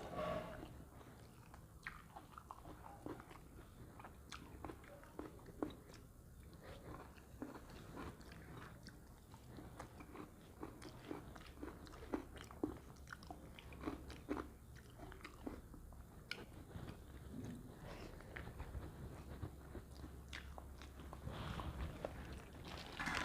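A person eating, chewing with soft irregular crunches and clicks, over a low steady hum.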